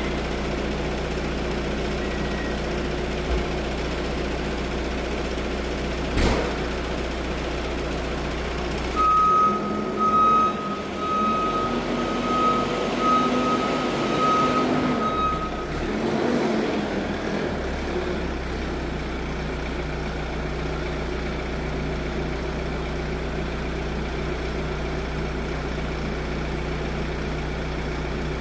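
Holder C70 compact tractor engine running steadily. About nine seconds in, the engine note changes for several seconds while a high beeping tone pulses on and off, then the steady running resumes.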